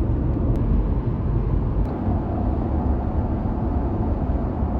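A vehicle in motion, heard as a steady low rumble with a faint hiss above it and a couple of faint clicks.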